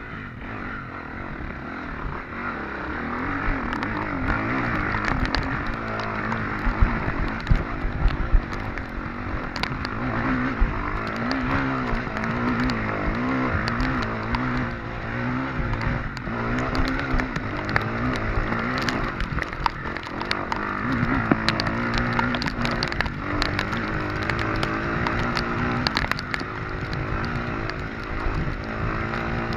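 Off-road motorcycle engine running under load, its pitch rising and falling again and again as the throttle is worked, with frequent knocks and rattles throughout.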